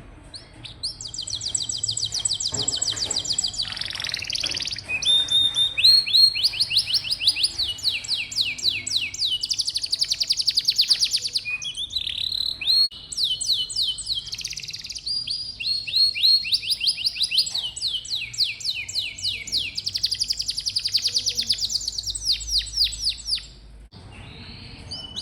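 Canary singing long runs of fast, rapidly repeated trilled notes, high-pitched, changing from one trill to the next, with short breaks and a pause near the end.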